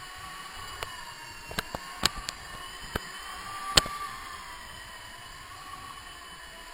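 Blade mSR micro RC helicopter in flight: a steady high electric motor and rotor whine that rises a little in pitch just before four seconds in, then eases back. A few sharp clicks sound over it in the first four seconds, the loudest just before four seconds in.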